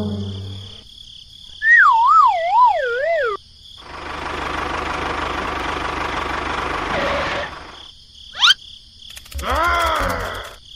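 A string of comic sound effects: a whistle-like tone wavering up and down about three times, then several seconds of rushing noise, a brief quick upward whistle, and near the end a tone that swoops up and back down.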